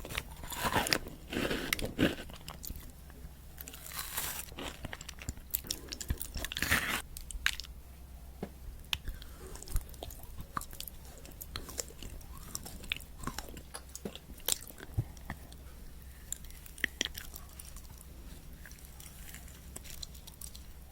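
Chocolate candy being bitten and chewed close to the microphone: loud crunches in the first several seconds, then quieter chewing with small scattered clicks.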